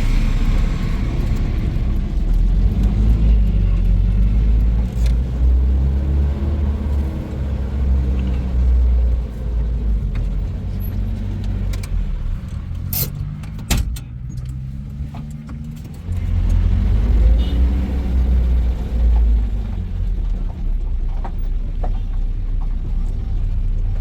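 A motor vehicle driving: low engine and road rumble, the engine note climbing and dropping again as it accelerates and changes gear. It eases off around the middle, with a few sharp clicks, then picks up again.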